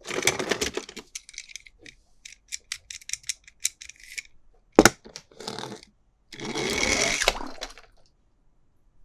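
Toy packaging being handled: plastic rustling and crinkling, with a run of quick clicks and one sharp loud snap about five seconds in, then a longer rustle.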